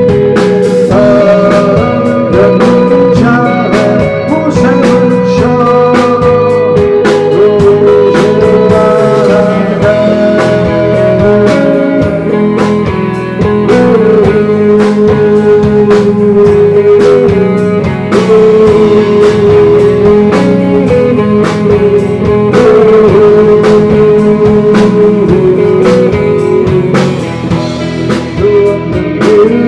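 Rock band playing live: drums, bass and sustained lead guitar lines, with some singing.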